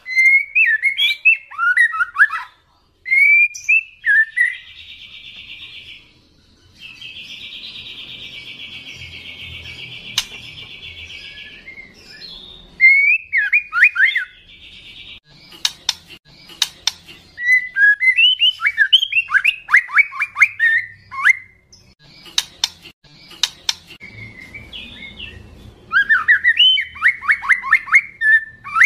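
Juvenile white-rumped shama (speckled trotol) singing loudly. It runs whistled phrases, two long buzzing rattles held for several seconds near the start, and fast runs of sharply falling notes in the second half, broken by a few sharp clicks.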